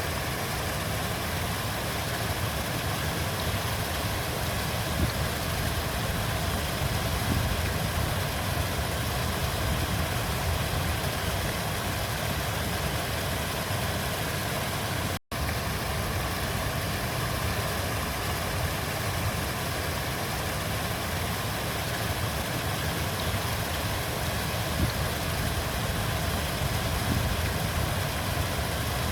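River water flowing steadily: a continuous rushing with a strong low rumble. It cuts out for an instant about halfway through.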